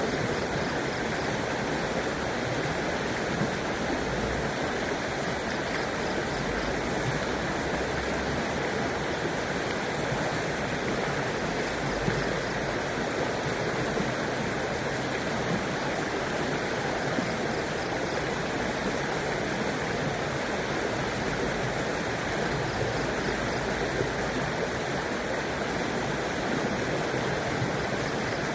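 River water flowing and rushing over rocks in a steady, even stream.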